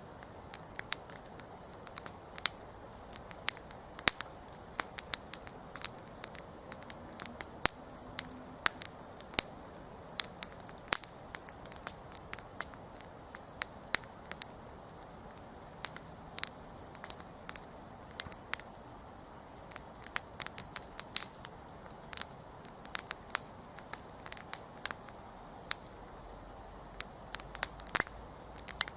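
Wood campfire burning and crackling: sharp irregular pops and snaps, several a second, over a soft steady hiss of the flames.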